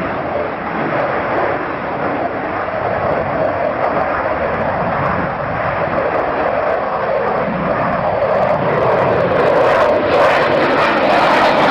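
Fixed-wing aircraft flying past, a steady rushing engine noise that eases a little early and builds louder again in the last few seconds.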